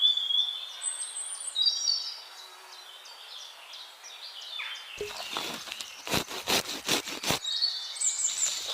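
Outdoor ambience of small birds chirping and twittering in short high calls. About halfway through comes a quick run of roughly ten sharp clicks or knocks over two to three seconds.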